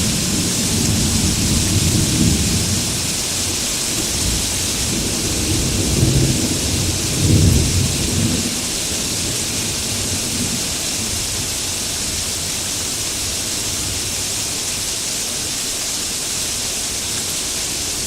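Steady heavy rain hissing, with rolls of thunder rumbling low through the first half, the loudest about seven seconds in; after that only the rain.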